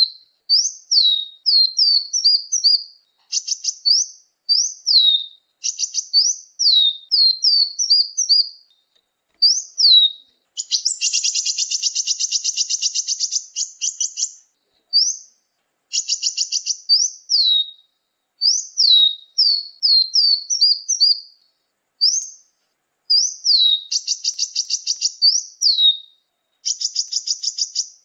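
Small songbirds' calls played as a bird-lure recording: quick series of high, sharply falling whistled notes, broken by dry rapid buzzing trills, the longest about halfway through. The gaps between phrases are completely silent, as in an edited, noise-free recording.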